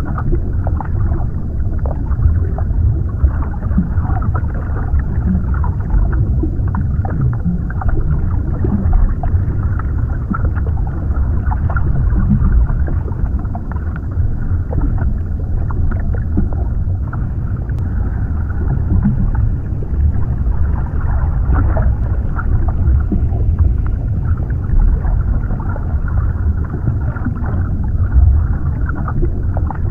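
Underwater ambience heard as if from below the surface: a steady, muffled low rumble with many small crackles and pops, and little in the treble.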